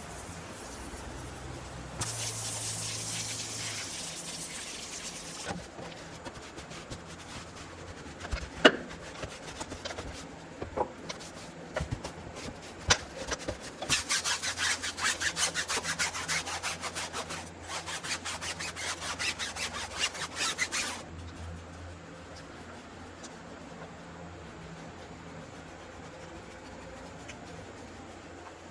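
A brush scrubbing a car's wheel and tire by hand. A hiss about two seconds in is followed by a few scattered knocks, then about seven seconds of quick rhythmic back-and-forth strokes that stop abruptly.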